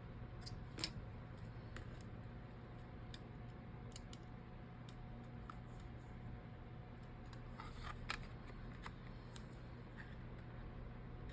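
Light clicks and taps of small tools and phone parts being handled during a phone repair, over a steady low hum. Two sharper clicks stand out, about a second in and about eight seconds in.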